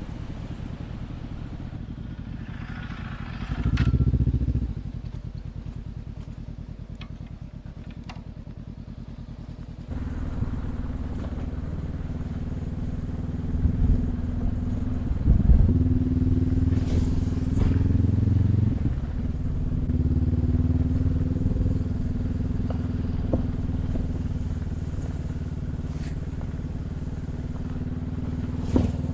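Dual-sport motorcycle engine running during a trail ride, quieter at first with a brief louder surge about four seconds in, then louder and steady from about ten seconds in, with a few sharp knocks along the way.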